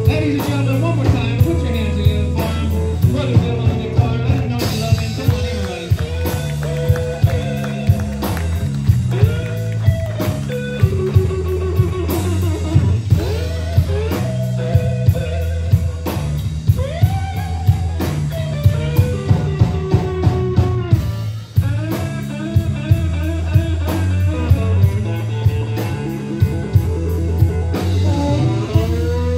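Live blues band in an instrumental break: a lead guitar plays a solo of bent, sliding notes over a steady bass line and drum kit.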